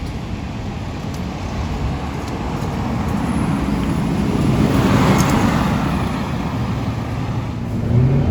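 Scania K230UB city bus's diesel engine running, with a rumble that swells to its loudest about halfway through and then eases off.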